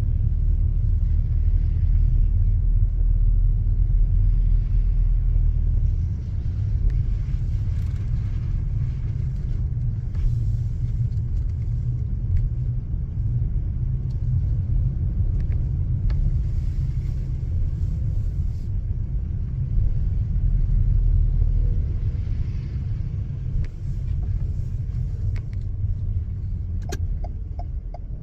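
A car driving on snowy city streets: a steady low rumble of engine and road noise, with a few faint ticks near the end.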